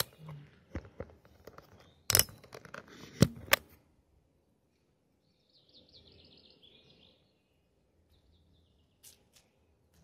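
A few sharp clicks in the first few seconds, the loudest about two seconds in, then a small bird chirping in a quick high run for about a second and a half.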